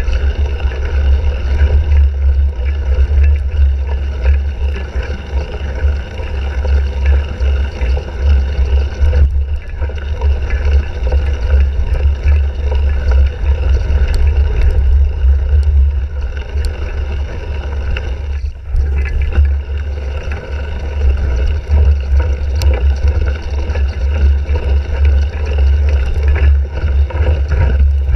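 Wind and riding rumble buffeting a bicycle-mounted action camera's microphone as a cyclocross bike is ridden, a loud steady low rumble with brief dips.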